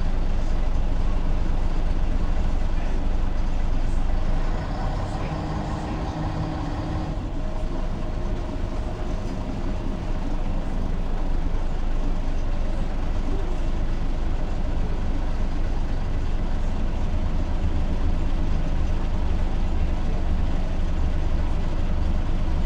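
Ikarus 280 articulated bus's diesel engine running under way. It is steady and low, eases off about four and a half seconds in, and builds back up over the following few seconds.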